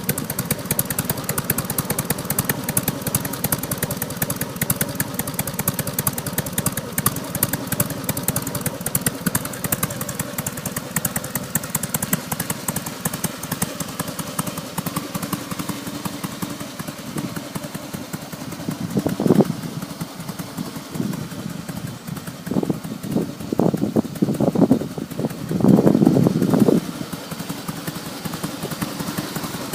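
Carbureted Harley-Davidson V-twin idling through North American-spec mufflers with baloney-cut tips and baffles punched out to 20 mm, a quiet but deep bass exhaust note. In the second half the throttle is blipped several times in short revs, the longest near the end.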